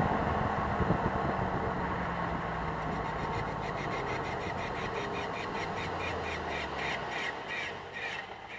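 Jeep Grand Cherokee SRT8's 6.1-litre Hemi V8 running at low revs, settling toward idle. From about three and a half seconds in, a regular ticking sounds a little more than twice a second over the engine.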